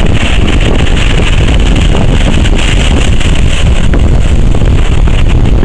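Strong wind buffeting the microphone in a loud, steady rumble, with stormy sea surf breaking underneath.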